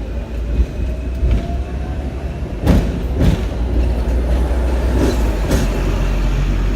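Hong Kong electric tram running, heard on board: a steady low rumble with a faint whine that rises in pitch over the first two seconds. The wheels give sharp clacks over the rail joints, twice close together near the middle and once more about two thirds in.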